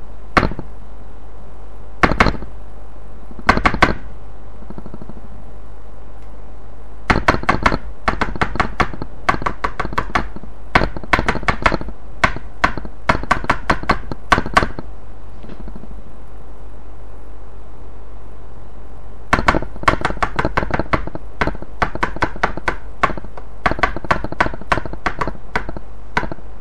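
Rapid sharp taps, several a second, over a steady low hum: a few short groups early on, then two long runs.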